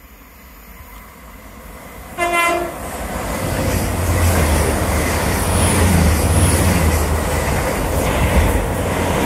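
A train sounds a short horn blast about two seconds in, then comes past close by, its running noise swelling and staying loud and steady.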